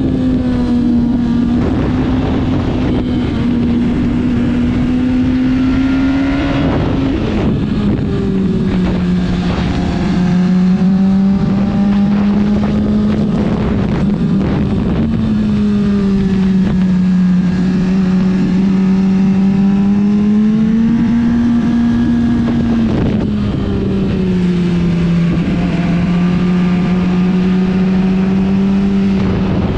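Motorcycle engine running hard at speed, its pitch holding high and then stepping down and climbing again several times (notably about 7, 15 and 23 seconds in) with the rider's throttle and gear changes, over constant wind rush.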